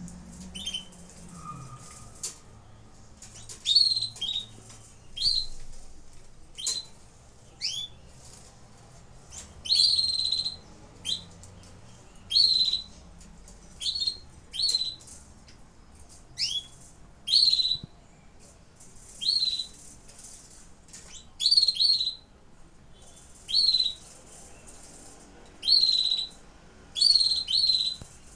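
Canaries calling in short, high chirps, each a quick downward sweep, coming about once every one to two seconds.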